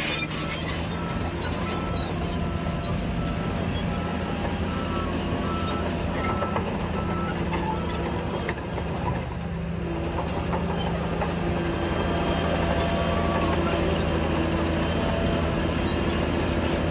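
Diesel engine of heavy earthmoving equipment running, with a reversing alarm beeping at an even pace that stops a bit under halfway through. The engine grows louder in the last third.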